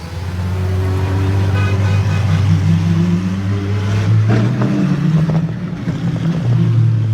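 Car engine running loudly, its pitch wavering up and down about halfway through.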